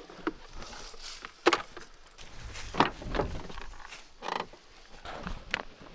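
A handful of irregular sharp knocks and scuffs, about a second apart; one near the middle has a short ringing tone.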